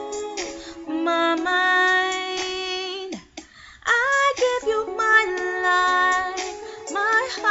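A woman singing long held notes over background music, with a brief pause a little past three seconds in.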